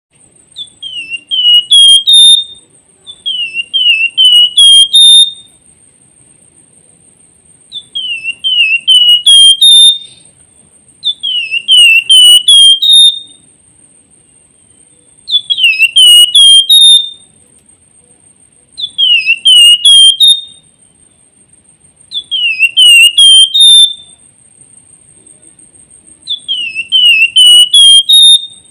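A Javan fulvetta (flamboyan, Wergan Jawa) singing its whistled song. It repeats a phrase about every three to four seconds: four or five quick dipping whistles that climb slightly, ending in a few sharp high notes. A faint steady high-pitched tone runs underneath.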